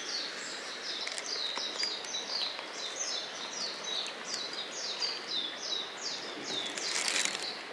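A bird calling with a long run of high chirps, each falling in pitch, repeated about three times a second, with a short rustle near the end.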